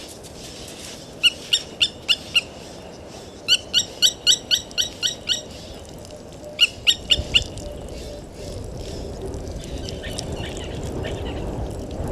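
A wild bird calls in three bursts of quick, loud, repeated notes, about four or five a second. Near the end a low rumbling noise builds underneath.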